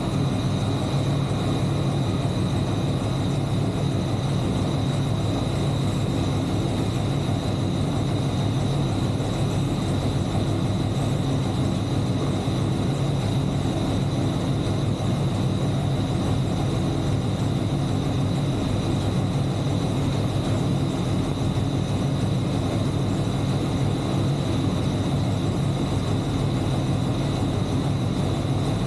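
LT1 383 stroker small-block Chevy V8 running at a steady speed on an engine dyno, with a thin high whine held throughout.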